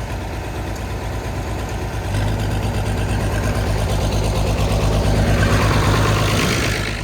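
Cold diesel tractor engine running, getting louder about two seconds in and again near the end before dropping back, as if throttled up and then eased off.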